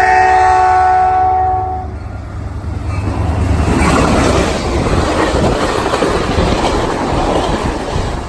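Caltrain train's air horn sounding one long chord of several notes, cutting off about two seconds in. Then the train passes close by, a loud rushing rumble of wheels on the rails that eases off near the end.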